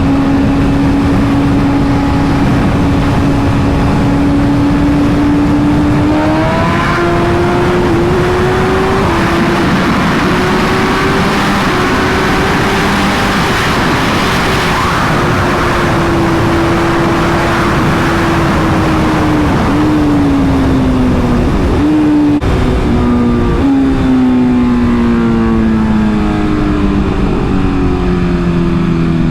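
BMW S1000RR sport bike's inline-four engine running on the move: a steady tone that steps up in pitch about six seconds in, with a rush of wind noise building through the middle. Near the end the engine note falls in several steps as the bike slows and downshifts.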